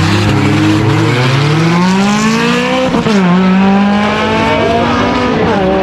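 Car engine accelerating hard, its pitch climbing steadily, dropping sharply at an upshift about three seconds in, then climbing again, with another shift near the end.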